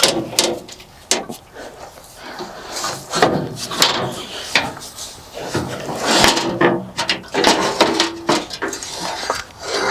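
Irregular clicks, knocks and scraping from hands working plastic and metal parts while changing a diesel fuel filter, with a brief squeak about three quarters of the way through.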